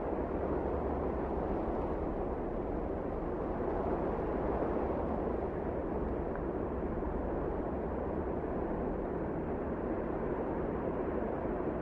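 Wind blowing steadily: an even, low rushing noise that holds the same level throughout.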